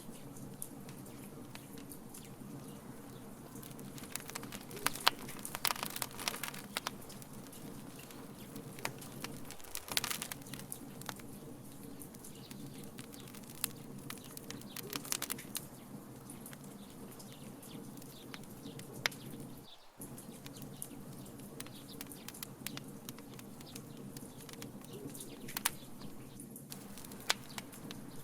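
Wood fire in a fire pit burning with a steady low rumble, and sharp crackles and pops coming in scattered clusters.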